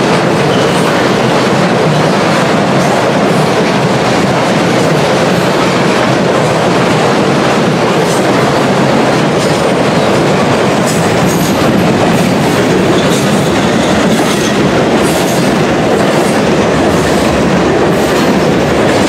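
Freight train cars rolling past close by: a steady, loud rumble and rattle of steel wheels on rail, with faint high wheel squeals now and then.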